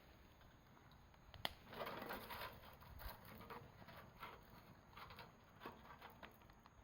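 Faint campfire crackling: irregular small snaps and ticks, with one sharp pop about a second and a half in and a soft burst of crackle just after.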